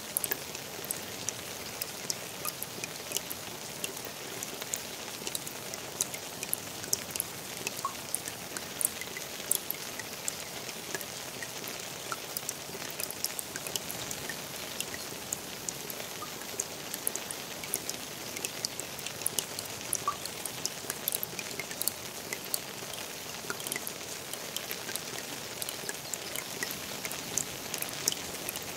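Steady rain falling on a pond's water surface: a constant hiss scattered with many sharp individual drop splashes.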